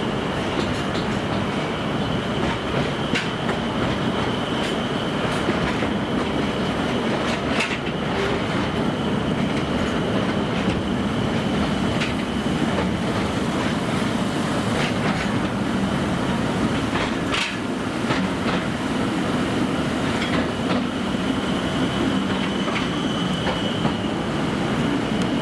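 Narrow-gauge forest railway train running along the track, heard from on board: a steady rumble with scattered clicks from the rail joints and a thin, steady high-pitched whine over it.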